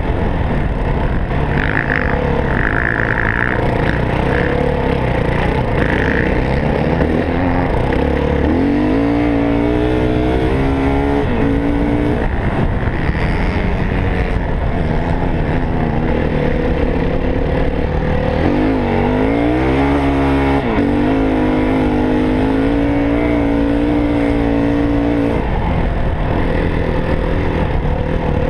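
Yamaha WR450F four-stroke single-cylinder dirt bike engine running hard on a trail ride, its revs climbing and dropping several times with the throttle, over steady wind and riding noise.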